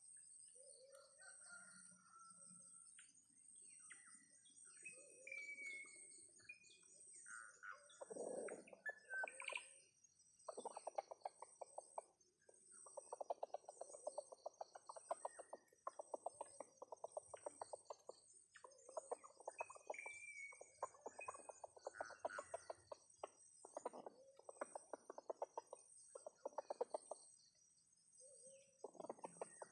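Free-range village chickens (ayam kampung) clucking in repeated runs of rapid notes, with a few short bird chirps in the first several seconds. A steady high-pitched drone runs underneath.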